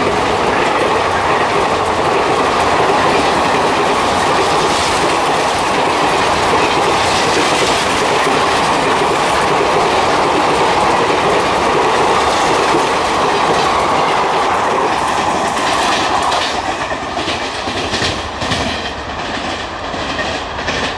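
Indian Railways express passenger coaches running past at speed, a loud steady rush and rattle of wheels on rails. About fifteen seconds in it eases off into a quicker string of separate clickety-clack wheel beats over rail joints as the train draws away.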